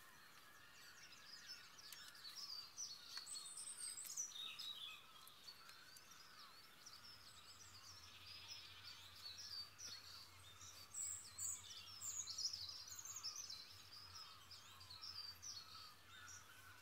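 Faint birdsong from several birds at once, a dawn chorus of overlapping chirps and warbling phrases.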